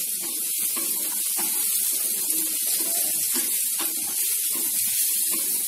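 Button mushrooms frying in hot oil in a nonstick pan, giving a steady sizzling hiss, as a wooden spatula stirs them with light scraping strokes.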